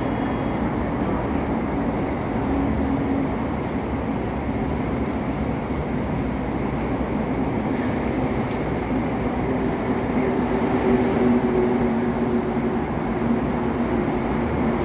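MTR East Rail Line electric train at the platform: steady running noise and low hum of the train, with a pitched whine that grows stronger about ten seconds in.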